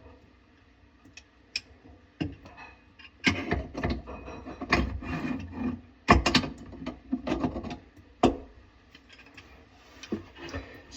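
Clicks, knocks and scraping of tools and fittings being handled while a faucet is installed. The activity is busiest in the middle, with sharp knocks about six seconds in and again just after eight.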